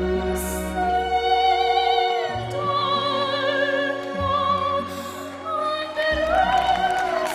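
A ten-year-old girl singing in a classical operatic soprano over an orchestral backing track, holding long notes with vibrato.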